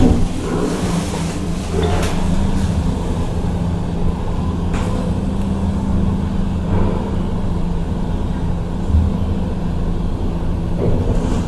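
KONE MiniSpace traction elevator car travelling in its shaft: a steady low hum and rumble, with a couple of faint clicks.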